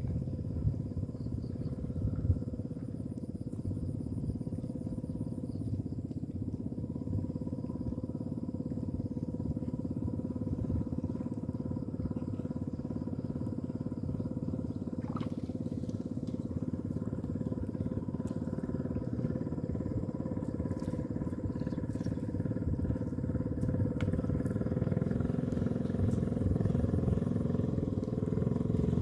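A small engine running steadily at an even speed, getting louder over the last few seconds, with a couple of short knocks near the start.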